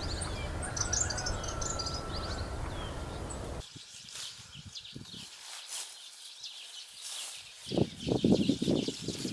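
Birds chirping in quick high runs over the rumble of wind on the microphone. The wind rumble cuts off about three and a half seconds in, leaving scattered clicks and a short burst of rustling near the end.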